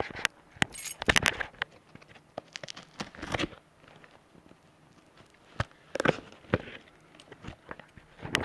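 A small cardboard package being cut and torn open by hand: scattered clicks, tearing and crinkling of cardboard and packing, with longer scraping tears about one second in, around three seconds in and again near six seconds.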